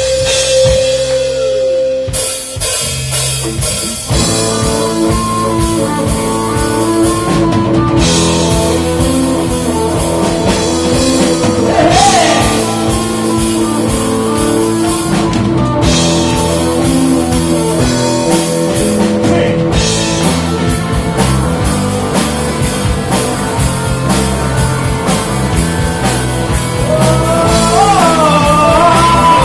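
Live rock band playing, with drums, electric guitar and bass. A held note opens it, and the full band builds in over the first few seconds.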